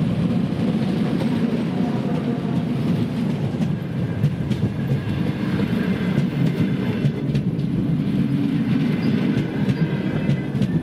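Double-decker passenger train, hauled by an electric locomotive, rolling past at speed. Its wheels give a steady, loud rumble with scattered clicks over the rail joints.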